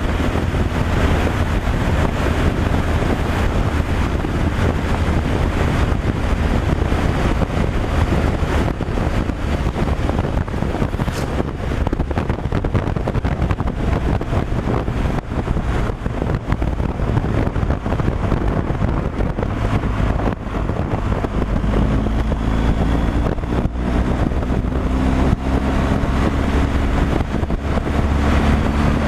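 Steady on-road driving noise from a truck: a constant low engine drone with road and wind noise. About two-thirds of the way through, a clearer engine note comes up and climbs slightly.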